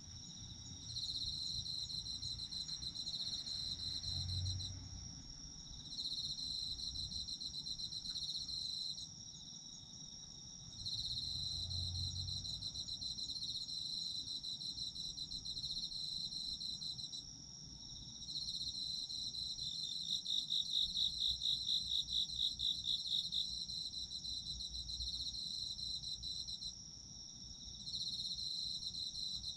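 A chorus of autumn insects calling. One high, steady, continuous trill runs under rapid pulsing trills that go on for a few seconds at a time with brief pauses. A louder pulsing call stands out about two-thirds of the way in.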